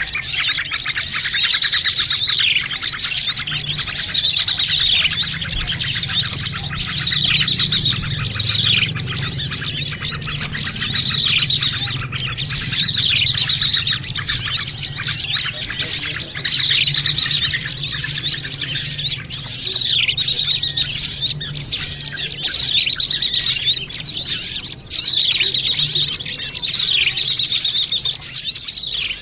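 Bird-lure recording of many small birds chirping and trilling busily together, with falling calls recurring every second or two.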